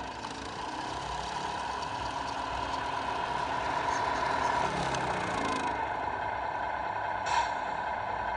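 Simulated diesel truck engine sound from a Tamiya RC Scania's electronic sound unit, running steadily through its small speaker, with one short hiss about seven seconds in.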